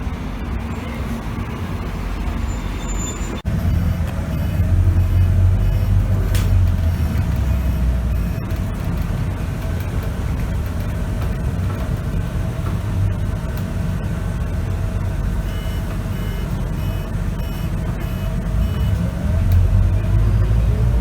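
Scania K94UB bus's nine-litre five-cylinder diesel and ZF automatic gearbox heard from on board, pulling away and accelerating. The engine gets louder about three and a half seconds in, and a rising whine near the end marks it picking up speed through the gears.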